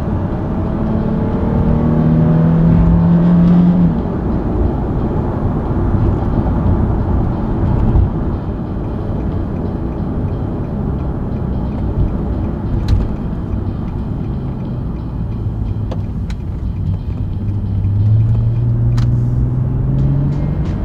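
Nissan 370Z Nismo's naturally aspirated V6 climbing in pitch as it accelerates for the first few seconds, then easing off into a steady low rumble at cruise. Near the end it rises in pitch again under acceleration.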